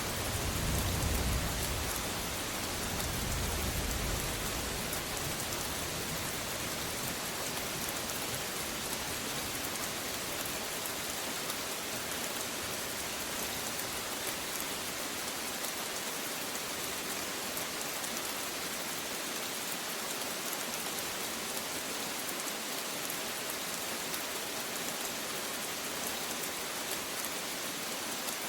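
Steady rain falling in a constant hiss, with fine patter of drops. A low rumble of thunder dies away in the first few seconds.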